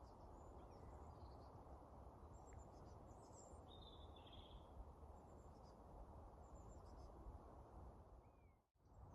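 Faint outdoor birdsong: scattered high chirps and a short warbled phrase about four seconds in, over a low steady background hiss. The sound cuts out briefly near the end.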